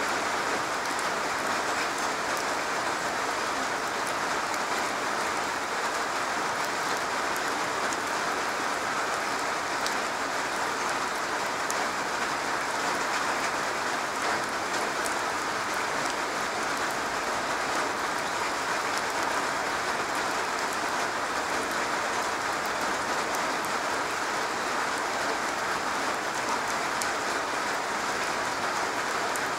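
Steady rain falling on a garage roof: an even, unbroken patter with scattered sharper drop ticks.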